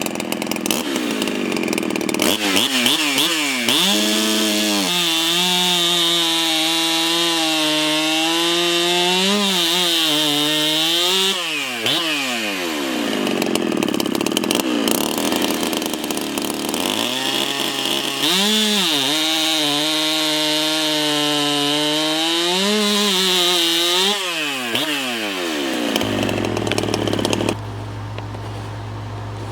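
Big-bore Husqvarna 372XP chainsaw, a two-stroke, revved up and held at high speed twice for about seven seconds each, dropping back in between. Near the end it falls to a quieter, steady idle, which the builder says runs a little rich while the new rings seat.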